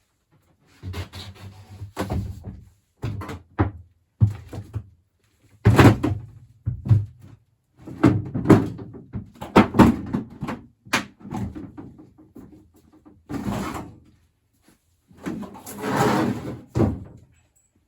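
Irregular knocks, bangs and scraping from hands-on work disconnecting an old furnace, with a few sharp bangs and two longer stretches of scraping and rattling near the end.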